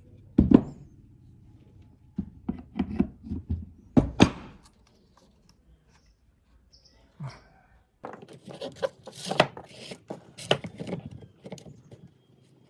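Handling of hard parts: a loud knock about half a second in and another about four seconds in, a quick run of knocks in between, then a dense stretch of clicks and rattles from about eight seconds.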